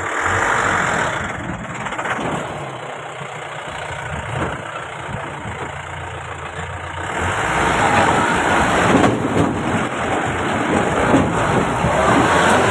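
Mahindra Bolero's diesel engine running as the vehicle drives up a rough hill track, with heavy road noise. It gets louder and works harder from about seven seconds in.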